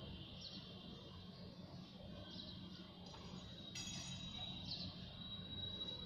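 Faint bird chirps, short high falling calls every couple of seconds, with a thin high whistle in the second half, over a low steady hum.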